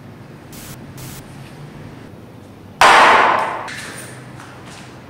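A sudden loud crash about three seconds in, fading out over about a second, after a faint hiss.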